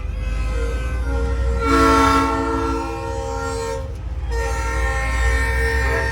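Nathan Airchime train horn on a semi truck blowing its multi-note chord in long blasts, with a short break about four seconds in, over the steady low rumble of the truck's diesel engine.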